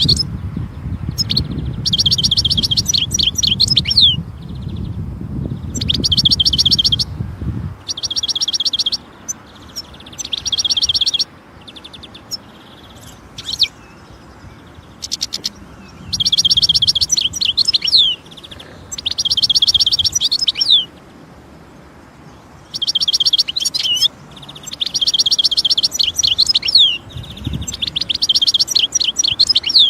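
European goldfinch singing: phrases of fast, twittering trills ending in quick downslurred notes, each one to two seconds long and repeated with short pauses. A low rumble runs under the first several seconds.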